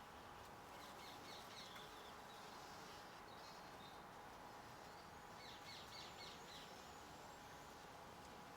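Faint outdoor garden ambience with quick high chirps from small birds in two short clusters, one about a second in and another about six seconds in, over a steady background hiss and a faint steady hum.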